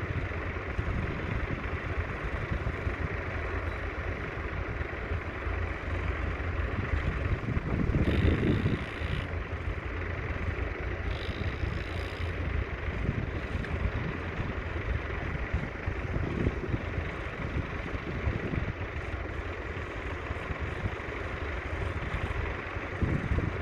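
Ford 3000's 2.9-litre three-cylinder diesel engine running steadily, with a louder surge about eight seconds in.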